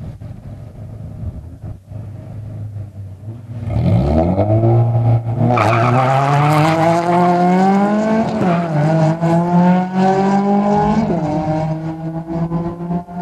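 Nissan Almera N15 hatchback launching off the drag-strip start line about four seconds in and accelerating hard. The engine note climbs steeply, with brief dips at two gear changes, and stays loud as the car pulls away down the strip.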